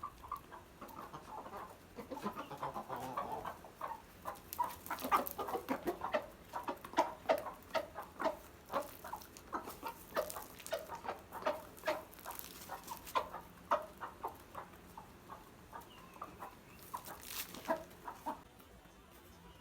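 Aseel chickens clucking: a long run of short, sharp clucks, several a second, tailing off near the end.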